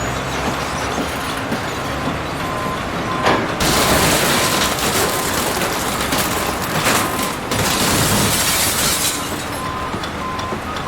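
A heavy demolition machine's engine runs steadily. From about three and a half seconds in to about nine seconds, a loud stretch of crashing and grinding debris, with several sharp cracks, covers it as the building is torn down.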